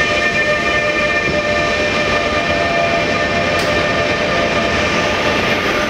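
Passenger coaches of a long departing train rolling slowly past, a steady rumble of wheels on rail under several steady whining tones. A single short tick comes about three and a half seconds in.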